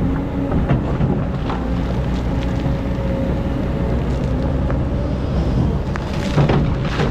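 Excavator's diesel engine running steadily, with a steady whine that fades about four seconds in and scattered knocks. A louder noisy burst comes about six seconds in.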